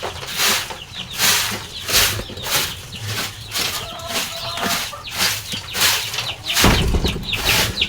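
A broom sweeping a floor in regular swishing strokes, a little more than one a second, with chicks peeping faintly. Near the end comes a heavier, lower scrape.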